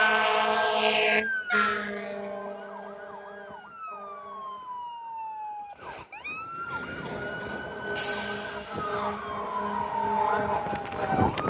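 Emergency vehicle siren wailing, its pitch rising and then falling slowly over several seconds. The wail breaks off about six seconds in and starts over. A loud horn blast opens the sound.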